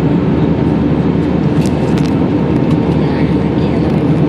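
Steady roar of an airliner's engines and rushing air heard inside the passenger cabin in flight, a deep even noise that does not change.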